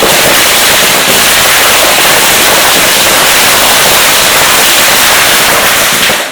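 Firecrackers going off in a very loud, rapid, unbroken crackle of countless small bangs, cutting off abruptly near the end.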